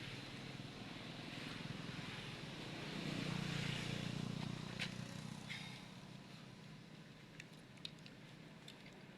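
Road vehicle passing: a steady rumble swells about three seconds in and fades away after six, with a few faint clicks near the end.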